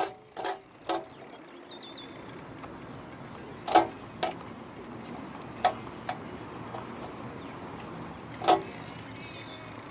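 Steady road and riding noise from a bike ride in traffic, a continuous hiss, with a few short sharp sounds every second or two.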